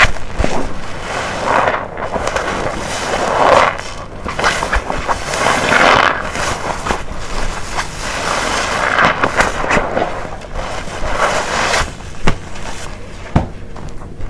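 A detergent-soaked waffle-textured car wash sponge being squeezed and released, giving wet squelching and crackling of foam in repeated swells of a second or two, with a few sharp clicks.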